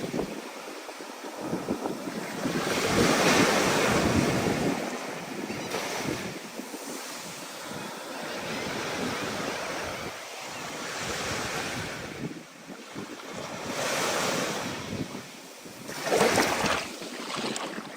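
Ocean surf breaking and washing in, swelling and falling away every few seconds, with wind gusting over the microphone in a building storm.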